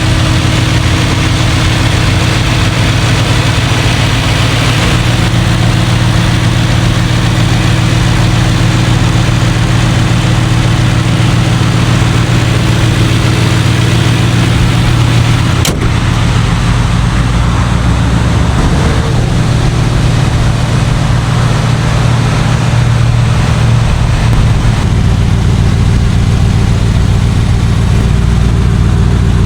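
Aston Martin DBX S's 4.0-litre twin-turbo V8 idling steadily, with no revs. There is a single sharp click about halfway through.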